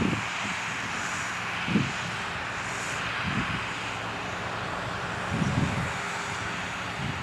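John Deere 8300 tractor's six-cylinder diesel engine running steadily while cultivating, with wind buffeting the microphone in a few short low gusts.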